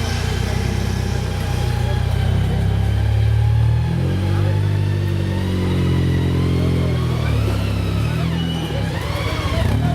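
Off-road competition vehicle's engine running under load and revving, its pitch climbing about four seconds in, sagging near the end, then blipped up and down.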